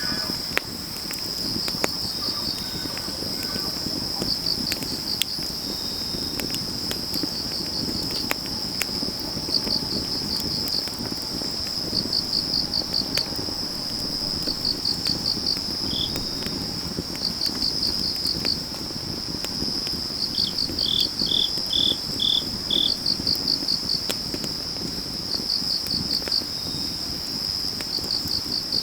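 Grass insects calling: a steady high trill with bursts of pulsed chirps every couple of seconds, and a second insect adding a short run of slower chirps about two-thirds of the way in. Underneath, a wood fire crackles with occasional sharp pops.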